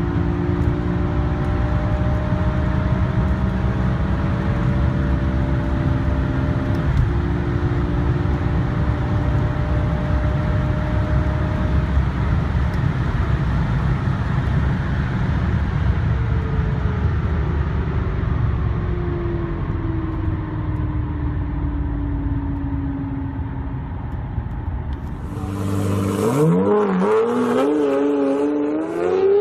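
Car engine and road noise in a steady, heavy low drone, its engine note drifting slowly lower over the second half. About 25 seconds in, it cuts to a different car accelerating hard: the engine revs climb, dip at a gear change, and climb again.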